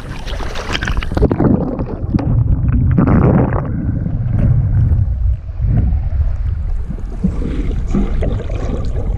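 Loud low rumble with gurgling water on the microphone. About a second in, the top end drops away suddenly and the sound turns muffled.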